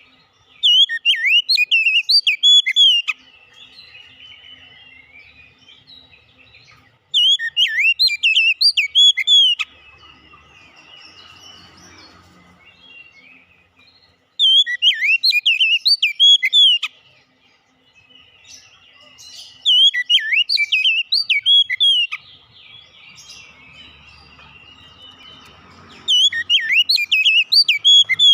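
Oriental magpie-robin (kacer) singing in five loud bursts of rapid, varied whistled notes, each about two and a half seconds long and coming about every six seconds. Fainter chirping carries on between the bursts.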